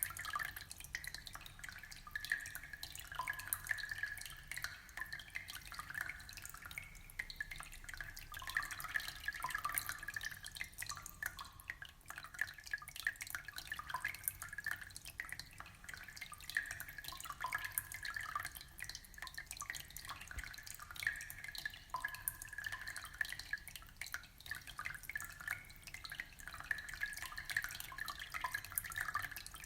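Aquarium water trickling and bubbling: a continuous patter of small drips and bubble pops over a low steady hum.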